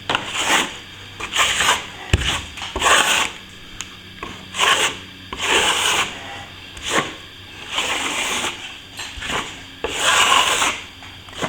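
A plastering trowel scraping across plaster in repeated strokes, roughly one a second, as a fresh coat is spread over a ceiling-to-wall crack repair.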